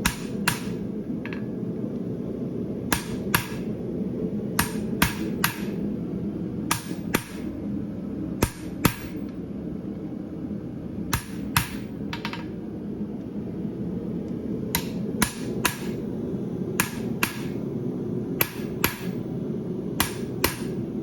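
Hand hammer striking a hot steel horseshoe on an anvil in short groups of two to four ringing blows, shaping a branch of the shoe. Under the blows runs the steady noise of a gas forge burner.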